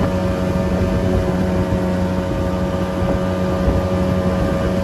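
Small jet boat underway, its engine running at a steady pitch over a constant rushing hiss.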